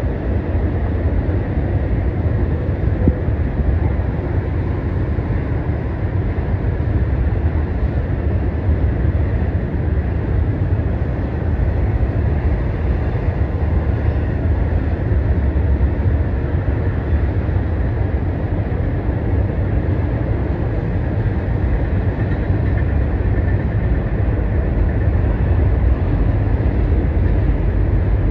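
Steady rumble of a long intermodal freight train's container cars rolling across a steel truss bridge.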